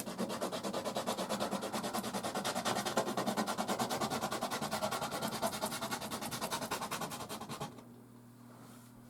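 Soft pastel scrubbed rapidly back and forth on canvas, a fast even scratching of about eight to ten strokes a second that stops about three-quarters of the way through.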